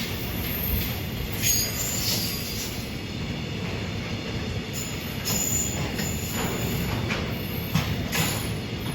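Freight train rolling past the track: a steady low rumble of the wagons, with a knock from the wheels every second or so and several brief high-pitched wheel squeals.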